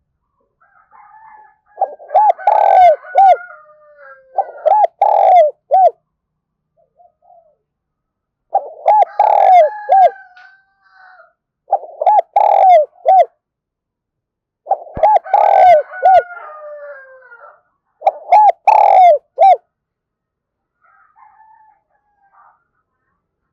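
Decoy spotted dove cooing in a spirited mixed deep and rapid urging voice: six short coo phrases in three pairs, with a few seconds' pause between pairs.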